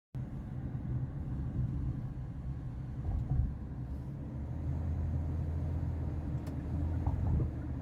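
Steady low rumble of a vehicle heard from inside, with a few faint clicks.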